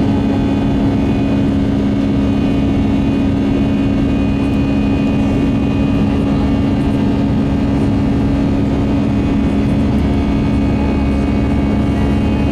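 Airbus A319 jet engines and airflow heard from inside the passenger cabin: a loud, steady drone with a deep two-note hum and fainter higher tones above it.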